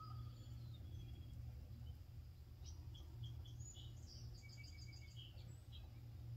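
Faint, short high-pitched bird chirps, scattered through the middle and including a quick run of several, over a steady low hum. At the very start a drawn-out chicken call fades out.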